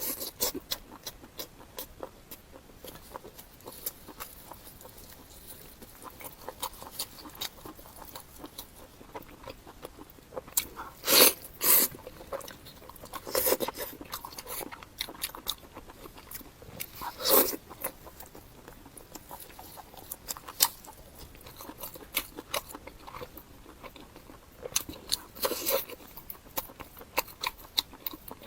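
Close-miked chewing and biting of pork heart-guard meat (护心肉): a run of small wet mouth clicks with louder crunchy bites about 11, 13, 17 and 25 seconds in.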